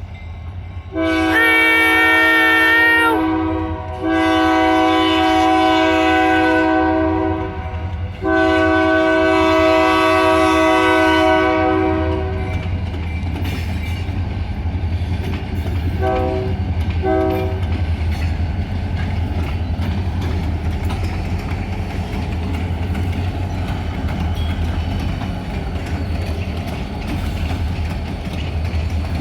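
Kiamichi Railroad diesel locomotive air horn, a chord of several notes, sounding three long blasts, the last the longest, then two short toots a few seconds later. Under and after it runs the steady low rumble and clatter of the freight train rolling past.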